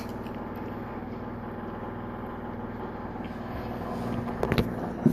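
Refrigerator running with a loud, steady mechanical hum, with a few sharp knocks about four and a half seconds in and another at the end.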